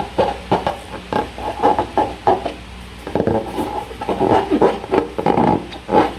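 Slime being worked: an irregular run of wet squelches and small sticky pops, several a second.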